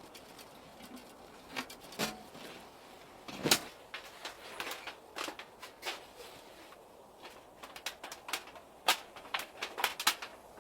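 A series of irregular knocks and clicks of objects being handled. The loudest knock comes about three and a half seconds in, and a quick cluster of them falls near the end.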